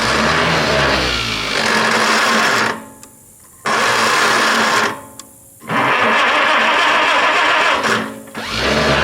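Farmall Super A's starter cranking its four-cylinder engine in four bursts of a couple of seconds each, with short pauses between. The engine turns over well but never fires: there is no spark from the ignition.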